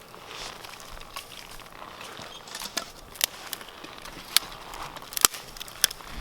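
Wood campfire crackling, with several sharp pops.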